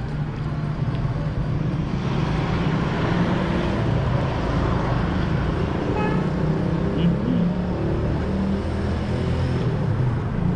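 Street traffic: a motor vehicle's engine running close by over a steady road noise, with a short high-pitched tone about six seconds in.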